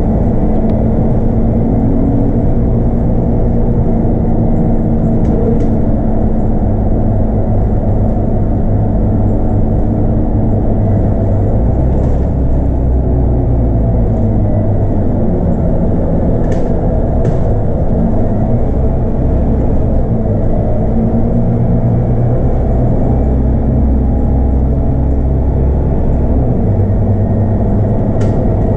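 Scania DC9 8.9-litre five-cylinder diesel of a 2009 Scania K230UB bus with a ZF Ecomat automatic gearbox, running under way, heard from on board: a steady low drone whose deepest notes swell about eleven seconds in and again later. A few brief rattles and clicks come through.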